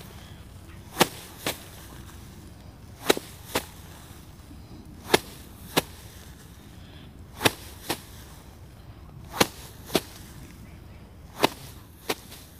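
A bundle of harvested rice stalks beaten by hand to thresh the grain out. Sharp slaps come in pairs, a hard strike then a lighter one about half a second later, roughly every two seconds, six pairs in all.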